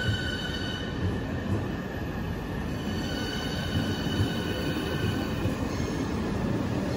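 Berlin S-Bahn Class 483/484 electric train running out along the platform: a steady rumble of wheels on rail with several high, steady whining tones over it.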